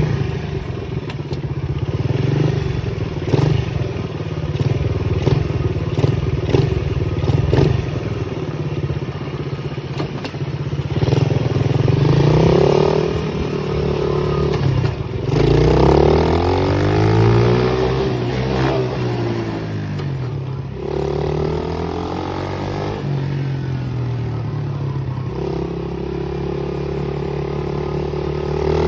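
Pit bike engine running while riding, holding a steady pitch with a rattling clatter for the first several seconds, then revving up and dropping back several times as it accelerates and eases off.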